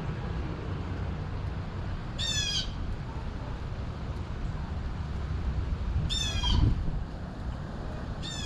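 A bird giving short, harsh, crow-like calls: one about two seconds in, another about six seconds in, and a third at the very end. Under them runs a steady low rumble, with a dull low thump just after the second call.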